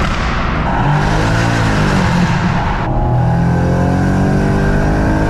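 BMW M140i's tuned big-turbo 3.0-litre straight-six accelerating hard, revs climbing and falling, with loud exhaust noise; the sound changes abruptly about three seconds in, as between two clips, and the revs rise steadily after that.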